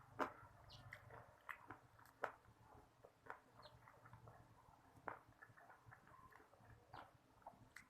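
Faint chewing of crispy fried chicken: scattered small crunches and mouth clicks, a few a second at most.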